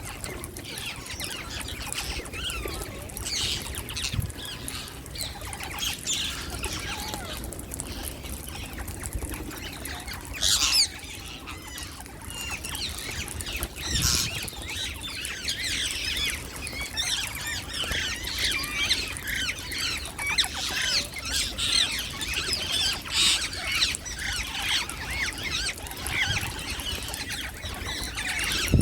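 Flock of wild green parakeets squawking and chirping, with sharp, quick calls that grow denser and more continuous in the second half, and one loud squawk burst near the middle.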